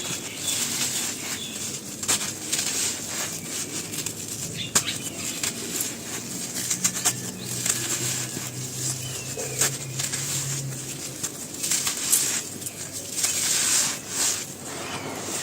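Dry, brittle material being crumbled: continuous crisp crunching and crackling made of many small, sharp cracks.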